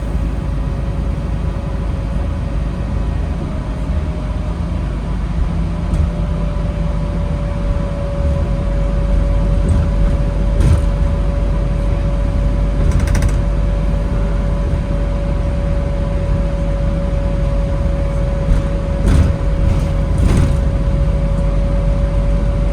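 Inside a New Flyer D40LFR diesel transit bus: a steady low engine rumble under a drawn-out whine that rises a little a few seconds in and then holds level. A few clicks and rattles come in the second half.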